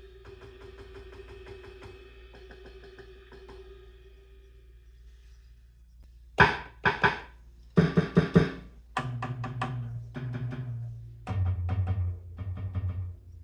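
Donner DED-200 electronic drum kit playing its drum sounds. A quiet, fading ringing tone and cymbal wash come first. About six seconds in, a run of loud single drum hits starts, then pitched tom hits that step down in pitch.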